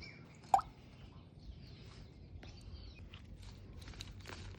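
African grey parrot giving one loud, sharp call about half a second in, followed by scattered soft clicks and short chirps.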